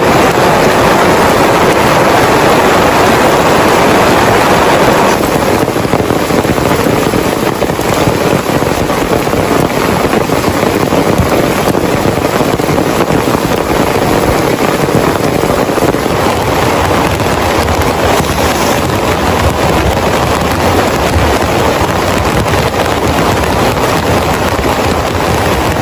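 Heavy rain pouring steadily in a loud, dense hiss, a little heavier for the first five seconds and then easing slightly.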